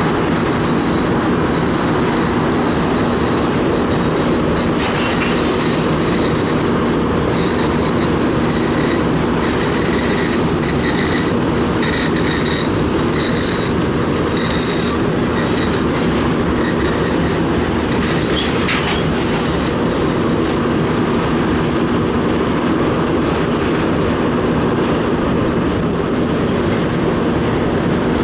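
Freight train of covered grain hopper cars rolling past at close range: a steady rumble of wheels on rail. A thin, high wheel squeal comes and goes through the first half, and there is a short sharp clank about two-thirds of the way through.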